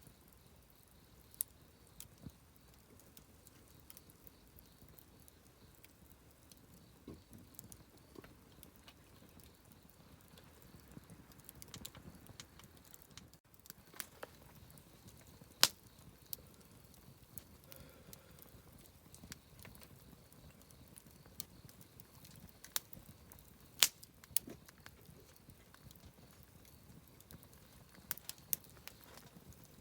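Wood campfire crackling: scattered sharp pops and ticks over a faint low rush of burning, with two louder pops, one about halfway through and one later on.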